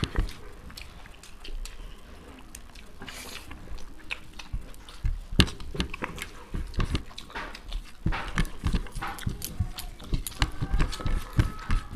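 Close-miked eating sounds: two people chewing and smacking mouthfuls of fried rice and chowmein eaten by hand, with fingers clicking and scraping on the plates. Irregular clicks and smacks, sparser early on and busier in the second half.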